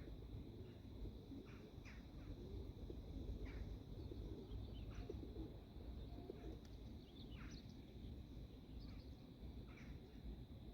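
Faint birdsong: short falling chirps repeated roughly once a second, over a low wind rumble and a steady thin high tone.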